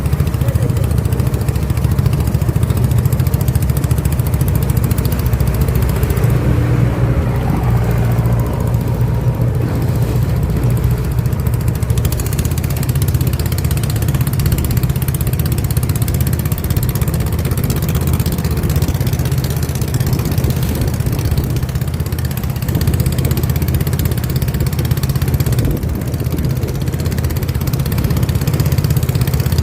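Boat motor running steadily at a constant speed, with a steady low drone.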